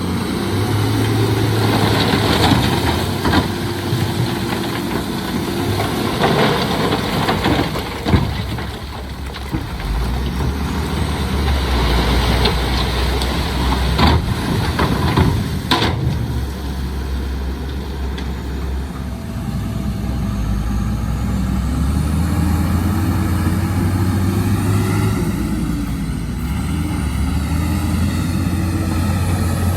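Heavy diesel earthmoving machinery at work: a steady low engine rumble with a few sharp knocks in the first half. In the second half a diesel engine's note rises and falls as it revs under load.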